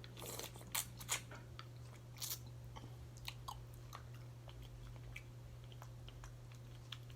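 A person chewing food close to the microphone, with wet mouth clicks and a few sharper crunching bites in the first couple of seconds, over a low steady hum.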